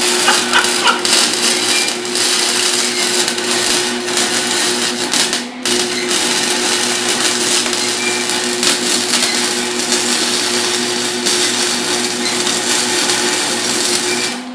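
Wire-feed (MIG) welder arc welding a turbo flange: a steady dense crackle and sizzle with a low electrical hum beneath, broken briefly about five seconds in, and stopping near the end.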